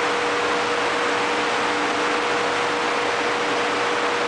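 Ship's engine room machinery running: a loud, steady noise with one constant tone held through it.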